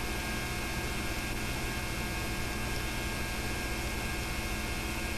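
Steady electrical mains hum with hiss: the background noise of the recording chain under a transfer of silent home-movie film, with no other sound.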